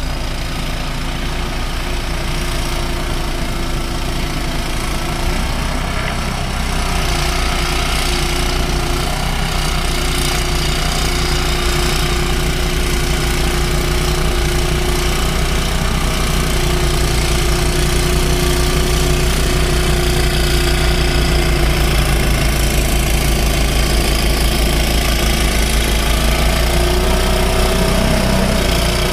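Snow blower's gasoline engine running steadily, getting a little louder about seven seconds in.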